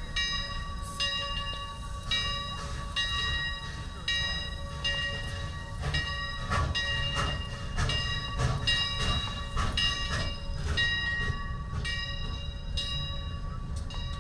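Steam locomotive Leviathan #63's bell ringing about once a second over a low rumble, with a run of sharp knocks in the middle.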